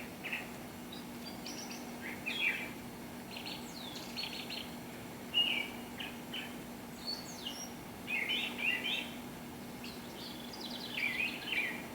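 Songbirds singing and chirping in short, high trilled phrases that come every second or so, over a faint steady low hum.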